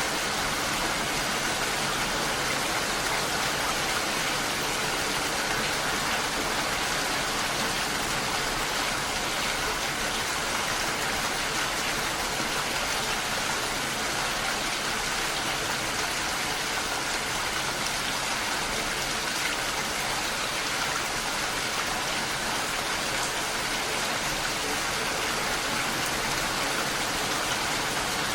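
Steady gentle rain falling, blended with the even rush of a waterfall: a constant hiss with no breaks or single loud drops.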